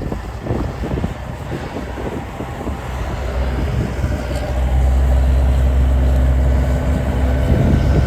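Snowplow truck engine running, growing louder about halfway through and then holding a steady low drone as the truck comes close.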